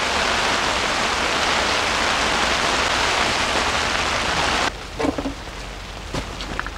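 Heavy rain falling on a tent, a dense steady hiss. About two-thirds through it drops suddenly to quieter rain, with a few light knocks.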